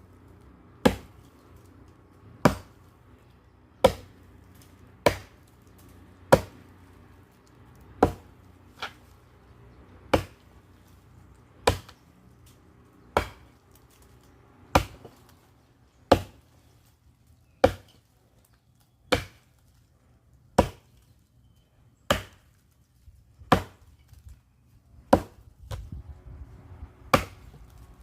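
An axe chopping firewood: about nineteen sharp, even blows into wood, one roughly every second and a half.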